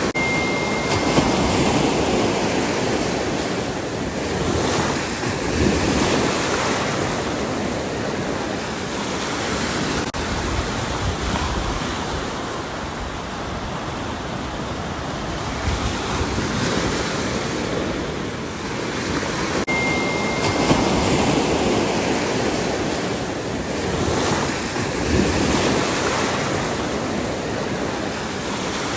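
Ocean surf: waves breaking and washing on the shore in a steady rush that swells and ebbs every few seconds.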